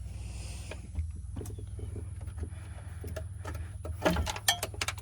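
Scattered light clicks and knocks of hands and tools working on the jet ski's electrical box wiring, with a short cluster of louder knocks about four seconds in, over a steady low hum.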